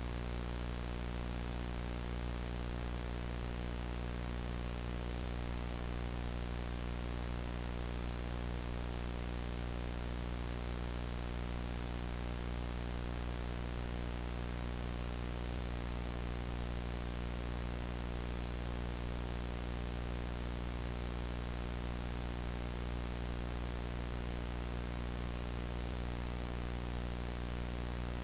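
Analog VHS tape static: a steady hiss over a strong low hum with a stack of steady buzzing tones, unchanging throughout.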